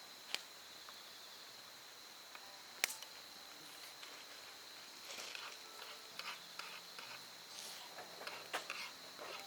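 Wood fire crackling with sharp pops: one near the start and a loud one about three seconds in, then a run of smaller crackles in the second half. A steady high insect trill runs behind it.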